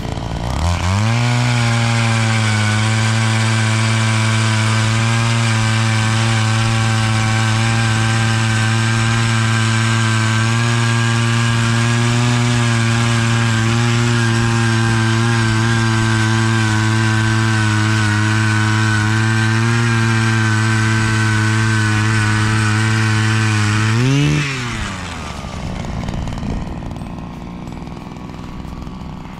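Battery-powered ION ice auger drilling through lake ice. The motor spins up within a second and runs loud at a steady pitch for over twenty seconds, then rises sharply in pitch about 24 seconds in and winds down to a stop. A quieter rushing sound follows.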